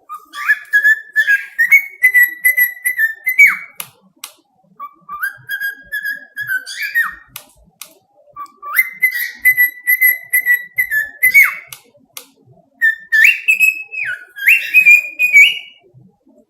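Parrot whistling a tune in four phrases of stepped, fluttery notes, each phrase climbing in pitch, with short pauses between phrases.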